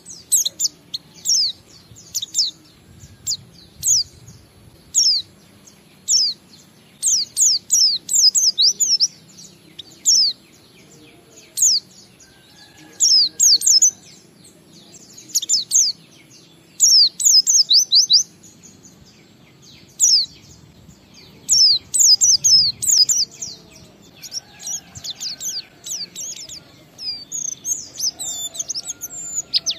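White-eye (pleci) singing: clusters of rapid, high, thin notes that sweep sharply downward, in phrases of one to two seconds broken by short pauses.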